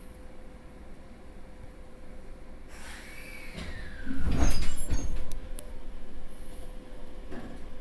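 Inside a passenger train car, a steady low hum is broken about three seconds in by a rush of noise and a whine that falls in pitch. A loud low thud and rumble follow, then two sharp clicks, before a lower steady running sound.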